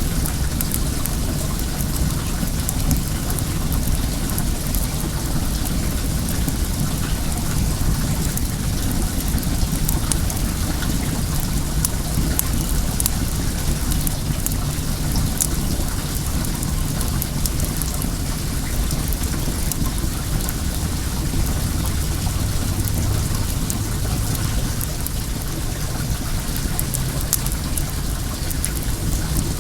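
Steady rush of running well water, with a wood fire crackling in small scattered pops throughout.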